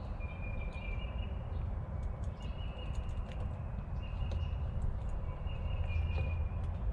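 Outdoor ambience: a bird repeating high, held whistled notes every second or two over a steady low rumble. Faint small clicks from handling plastic wires and a light base are scattered through it.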